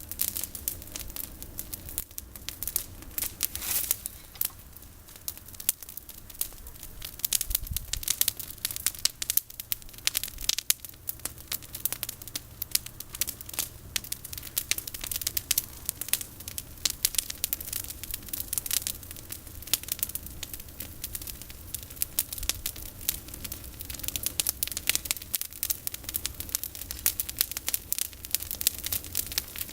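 Campfire of pruned olive branches burning, with a dense, irregular crackle and frequent sharp pops over a low steady rumble.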